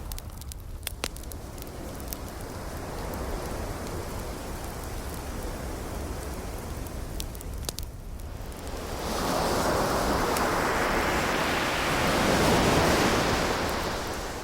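Ocean waves washing in with a wood fire crackling, scattered sharp pops through it. A wave swells up about two-thirds of the way through, peaks and draws back near the end.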